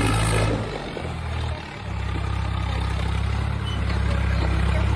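Swaraj 744 FE tractor's three-cylinder diesel engine running with a steady low note. The note briefly drops and shifts about half a second to two seconds in, then holds steady again.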